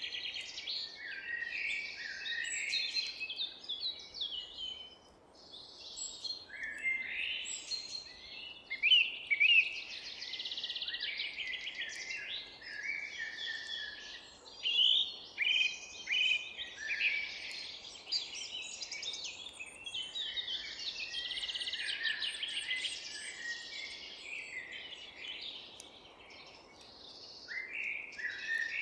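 Many songbirds singing at once in a forest dawn chorus: overlapping chirps, whistles and trills, with a soft steady hiss of background noise underneath.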